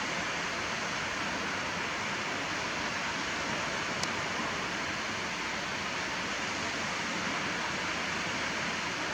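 Steady, even rushing noise of seaside surf, with no rise and fall from one wave to the next, and a brief faint tick about four seconds in.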